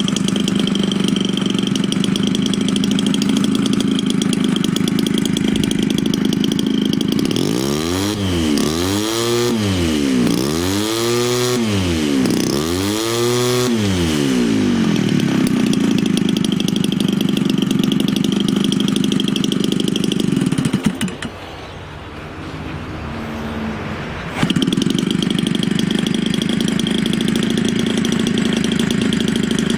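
Homelite 30cc single-cylinder two-stroke engine, converted for an RC model airplane and fitted with a larger Walbro carburetor, running at high speed. In the middle its pitch rises and falls several times as the throttle is worked up and down. About two-thirds of the way through it drops to a quieter idle for a few seconds, then snaps back up to full speed.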